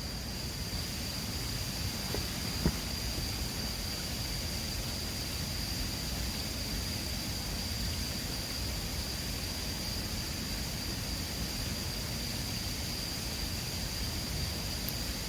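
Steady rush of a mountain river, with a constant high-pitched insect tone over it and one sharp snap a little over two and a half seconds in.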